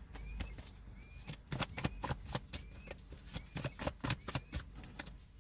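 A deck of reading cards being shuffled by hand: a quick, uneven run of sharp clicks.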